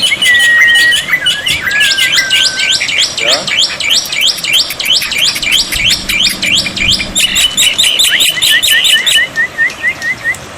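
Birdsong: held clear whistles, then a fast series of sharp chirps at about four a second, a dense trill, and a run of short rising notes near the end.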